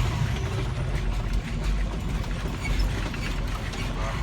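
Clicks and rattles inside a fire engine's cab, over the low rumble of the truck's engine.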